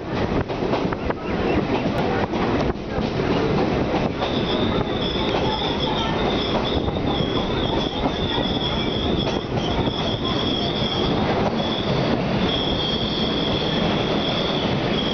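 Chennai MRTS electric train running, heard from inside a carriage: steady rumble and rattle of the wheels on the track. About four seconds in, a high-pitched metal squeal joins it, on and off, and it is strongest near the end as the train runs into a station.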